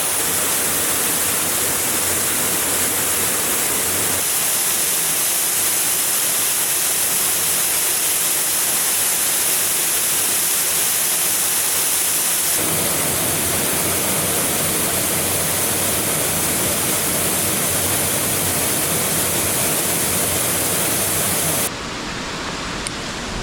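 Waterfall on the American River: the steady rush of falling white water close by. The sound changes abruptly about halfway through and again near the end, and is a little quieter after the second change.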